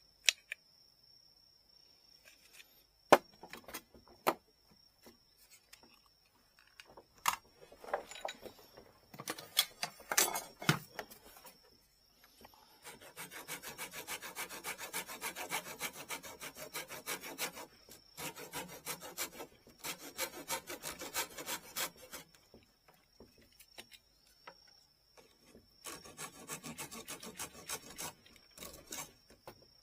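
Fast back-and-forth rubbing strokes of hand-shaping a part of a traditional Japanese rod, in three runs of a few seconds each. A few sharp clicks and knocks of handling come before them.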